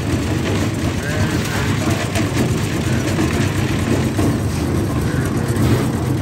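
A steady low engine or machine hum, with people's voices talking in the background.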